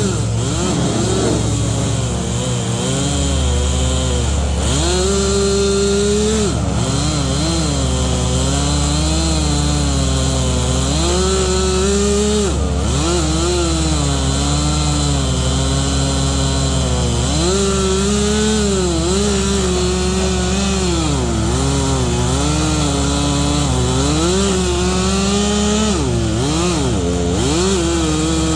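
Stihl chainsaw cutting through dense ironwood at high revs, its engine pitch dipping again and again as the chain loads up in the cut and then picking back up.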